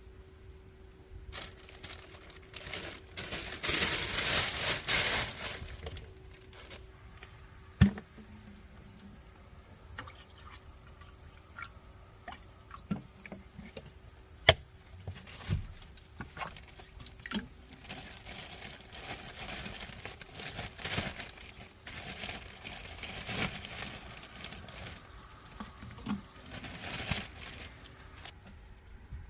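Liquid pouring in two stretches, the first short and loudest, the second longer and softer, with a few sharp clicks and knocks of kitchenware in between, over a faint steady hum.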